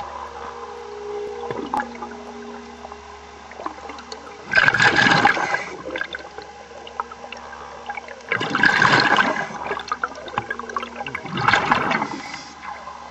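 Scuba diver exhaling through a regulator underwater: three bubbling rushes of exhaust bubbles a few seconds apart, over a steady low machinery hum.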